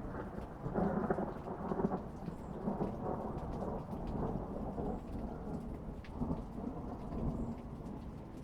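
Rain falling through a long rolling rumble of thunder that swells and ebbs in waves, loudest about a second in, with faint drop ticks over it.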